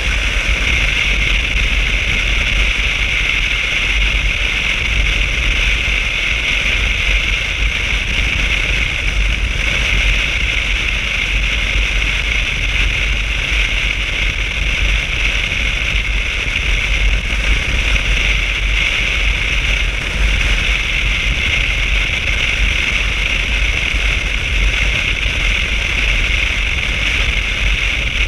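Motorcycle being ridden at a steady speed: a constant low rumble under a steady hiss of wind and road noise.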